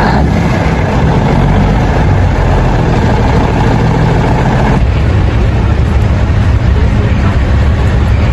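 Large truck engine running steadily with a deep, low tone; the sound shifts abruptly about five seconds in.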